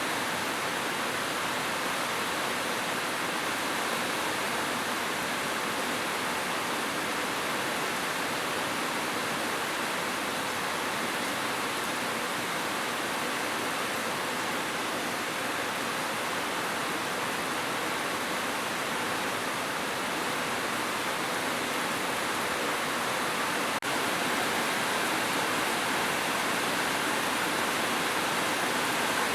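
Heavy rain drumming on a roof as a dense, steady hiss, with a momentary break about three-quarters of the way through.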